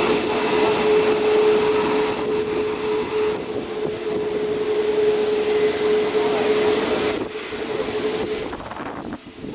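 Airbus A380 jet engines running: a steady rushing noise with one held droning tone, which fades away about seven seconds in as the sound drops off.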